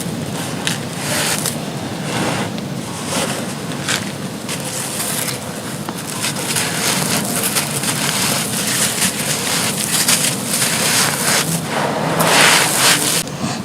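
Soft, dry, dusty chunks being crushed and crumbled: a continuous gritty crunching with irregular louder crunches, the loudest a little after twelve seconds in.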